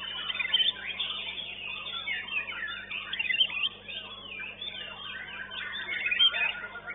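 White-rumped shamas singing at a songbird contest: quick, varied whistles and chirps from several birds overlapping densely and without pause.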